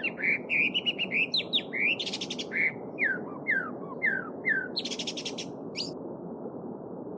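A small stream running steadily under a songbird singing: quick series of down-slurred whistled notes broken twice by a short buzzy rattle. The singing stops about six seconds in, leaving only the stream.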